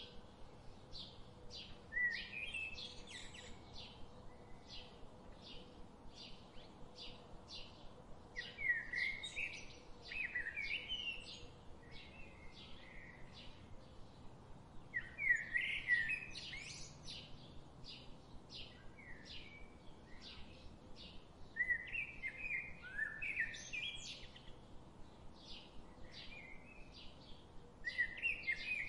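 Birds singing: a steady run of short, high chirps at about two a second, broken every few seconds by louder warbling phrases that rise and fall.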